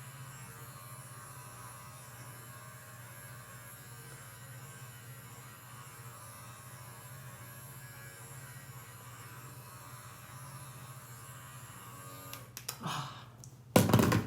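Steady low electric hum of a sonic facial brush running with its massage head. Near the end come a few clicks and a sharp knock.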